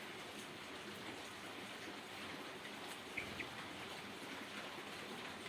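Steady rain falling, with scattered drops, and two short sharp clicks just past the middle.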